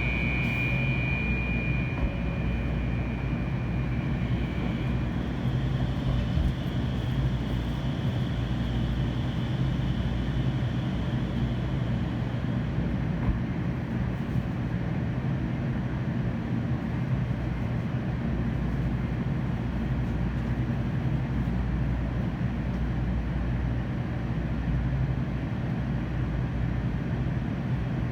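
N700 series 8000 Shinkansen running at speed, heard inside the passenger car: a steady rumble and hum, with a high whine that fades out in the first few seconds.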